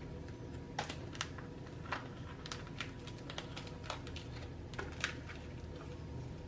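Faint, irregular light clicks and taps, a few every second, over a steady low hum.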